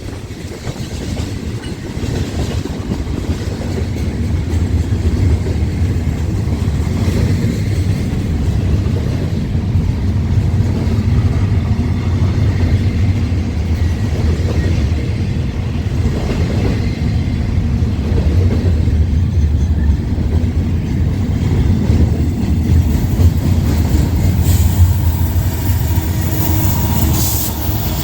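A mixed manifest-and-intermodal freight train rolling past close by: a steady, heavy rumble of cars with the clickety-clack of wheels over the rails.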